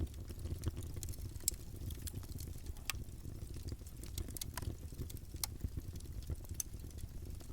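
Campfire burning: wood crackling with irregular sharp pops, a few louder snaps among them, over a low steady rumble of the flames.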